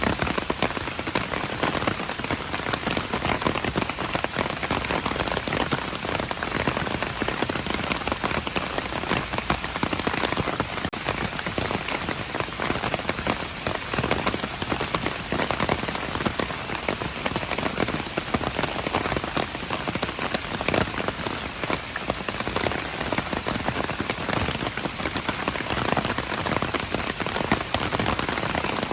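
Steady rain falling on hard surfaces: a dense, even patter of many drops.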